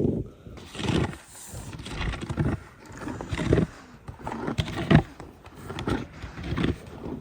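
An animal's repeated calls, one about every second.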